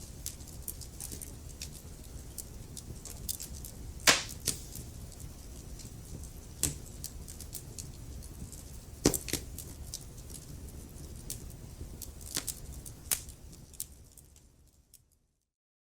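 Wood fire burning in a fireplace: a low steady rumble with frequent sharp crackles and a few loud pops, the loudest about four and nine seconds in. The sound fades out to silence near the end.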